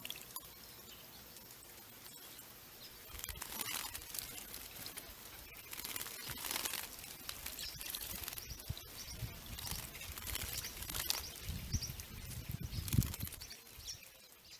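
Small birds bathing in a water fountain: wet splashing and wing-fluttering with a few chirps. The splashing gets busier in the second half and peaks shortly before the end.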